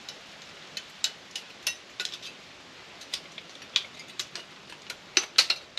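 Small metal screwdriver prying at aluminum pieces on a microwave part: a run of irregular sharp metallic clicks and taps, with the loudest few close together near the end.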